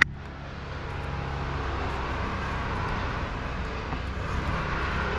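A sharp click, then a motor or engine running steadily, growing gradually louder over the first two seconds and then holding.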